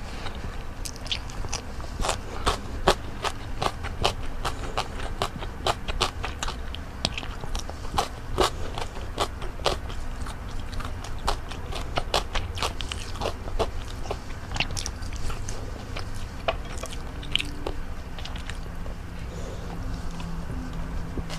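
Close-miked eating sounds: a person biting and chewing crisp cucumber slices and fried salmon, with many sharp, crackling crunches that thin out in the last several seconds.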